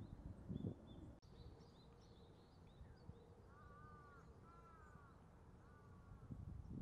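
Faint outdoor birdsong: small birds chirping over and over in short high notes, with three longer arching calls from another bird in the middle. A single click about a second in.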